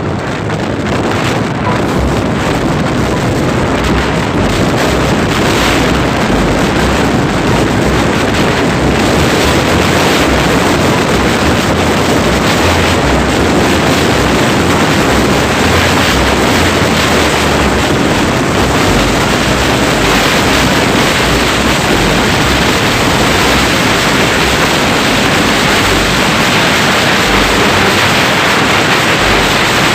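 Wind rushing and buffeting over the microphone of a moving motorcycle, a loud steady rush with uneven low rumbling, the engine buried under it.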